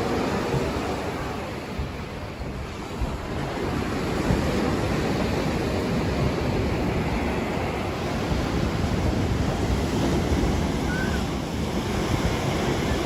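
Black Sea surf washing onto the beach, with wind rumbling across the microphone.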